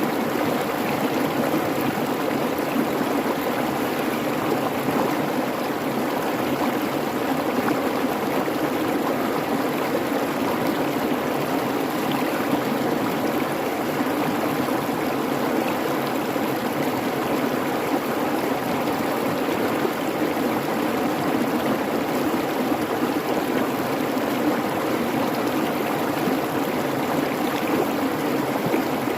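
Creek water babbling steadily over rocks, an even rushing flow with no breaks.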